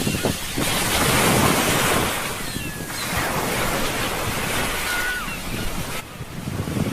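Sea surf washing on the shore, swelling and easing, with wind buffeting the microphone. A few faint high calls glide over it.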